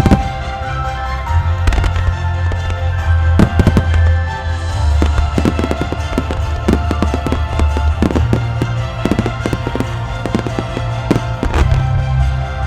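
Fireworks shells bursting in a finale-style starmine barrage: dozens of sharp bangs in quick succession, heaviest in the second half. Orchestral trailer music plays under the bursts.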